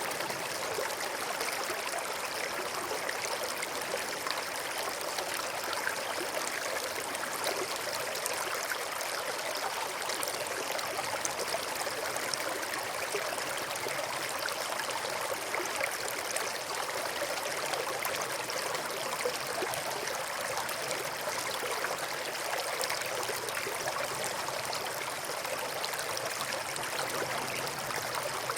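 River water flowing over and between rocks: a steady rush with fine splashing and gurgling, no change in level.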